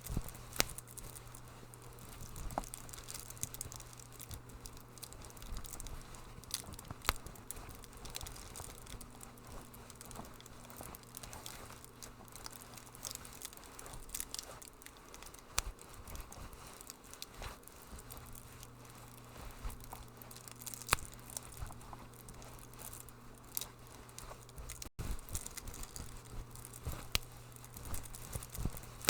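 Wood fire crackling in a fireplace: irregular small pops and snaps over a soft hiss, with a steady low hum underneath. The sound cuts out for an instant near the end.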